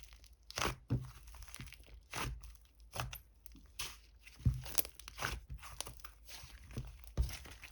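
Purple slime being squeezed and stretched by hand, giving irregular crisp crackles and crinkling pops.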